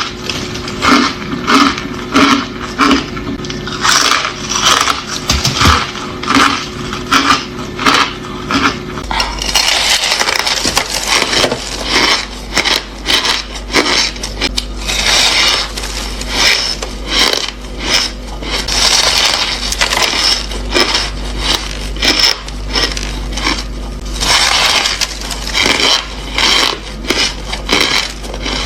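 Ice being bitten and chewed close to the microphone: a fast, irregular run of crunches and crackles. About a third of the way in the crunching turns brighter and a steady low hum sets in beneath it.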